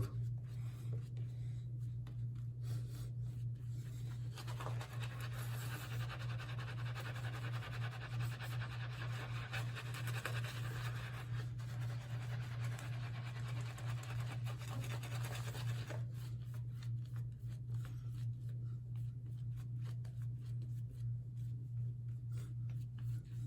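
Synthetic shaving brush scrubbing shaving cream into a day's stubble on the face to finish the lather: a soft, scratchy brushing, loudest from about four seconds in until about two-thirds of the way through, over a steady low hum.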